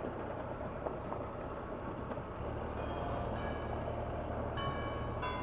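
Triumph Tiger 1200 motorcycle's three-cylinder engine and tyres rumbling over bumpy cobblestones at low speed, heard from the rider's helmet with wind noise. The low rumble gets a little louder about halfway through.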